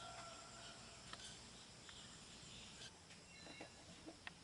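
Near silence: faint outdoor background with a few faint, distant high bird chirps.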